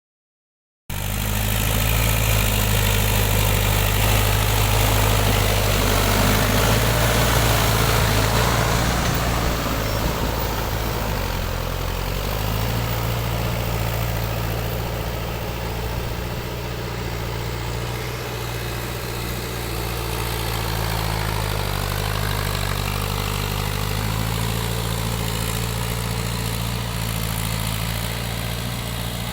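Tractor engine running steadily, starting about a second in, with a brief dip in pitch around eleven seconds in.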